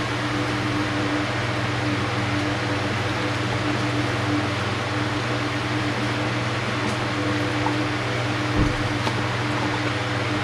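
Steady machine hum with an even airy hiss, like a running fan, holding constant throughout; a faint low thump near the end.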